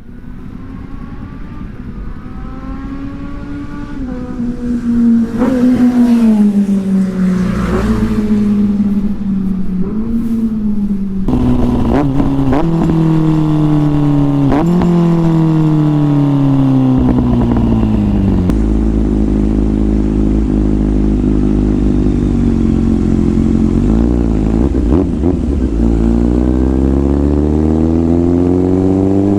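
Inline-four motorcycle engine under way, its pitch rising and falling through gear changes. Several quick jumps and drops in pitch come about halfway through, then it holds steady for a while and climbs again as it accelerates near the end.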